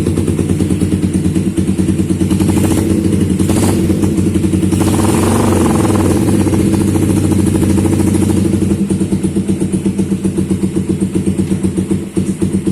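Suzuki Satria FU single-cylinder four-stroke engine, bored out to 180cc, running through an M_One Sport competition racing exhaust: it idles with a lumpy, pulsing beat, is revved from about two to six seconds in, then drops back to idle.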